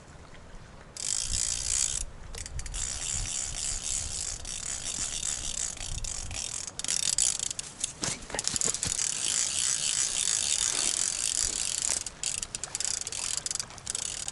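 Fishing reel's clicker ratcheting as line is pulled off it, the sign of a pike running with the live bait after a bite. It starts about a second in as a fast, high-pitched rattle and goes on with a few short breaks.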